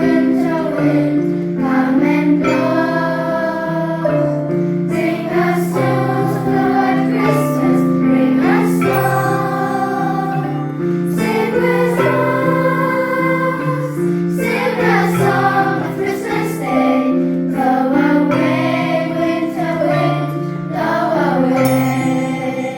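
A class of school children singing a song together as a choir, over an instrumental accompaniment of sustained chords.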